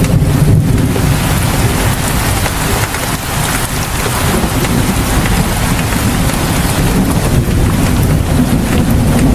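Heavy rain falling steadily outside a house, with a low rumble underneath that swells at the start and again near the end.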